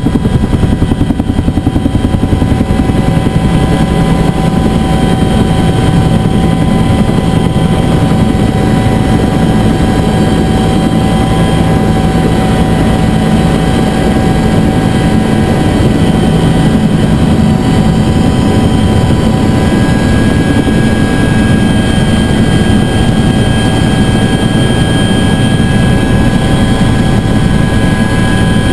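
Bell UH-1 Huey helicopter running in flight: a loud, steady rapid low beat from the rotor with several steady high whining tones from the turbine engine on top.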